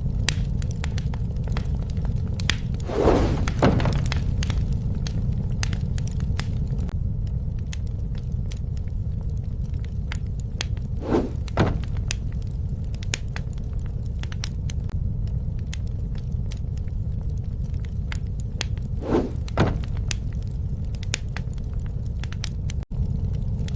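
Wood fire crackling steadily over a low rumble, with pairs of louder snaps about every eight seconds.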